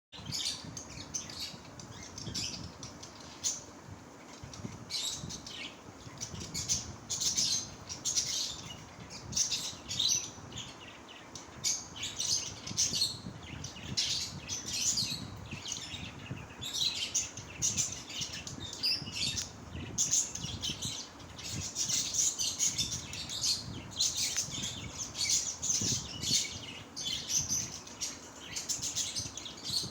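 A group of small pet parrots chattering together: many short, high chirping calls overlapping continuously.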